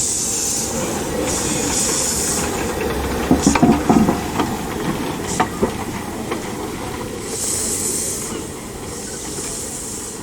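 Steam locomotive working slowly, its steam hissing in regular bursts about a second long. A few sharp metallic knocks come a little past the middle, and the sound fades toward the end.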